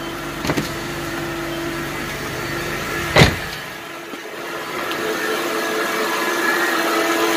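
2007 Honda Pilot's 3.5-litre V6 idling just after a start, with a steady tone over the engine noise. The owner hears this as sounding different and fears it is the alternator, which is not charging. A car door shuts once about three seconds in.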